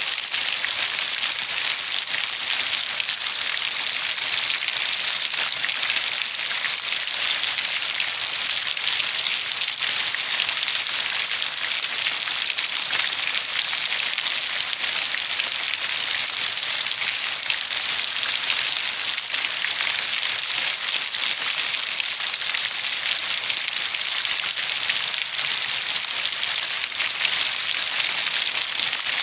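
Steady rain falling, an even hiss of many fine drop impacts with no break or change.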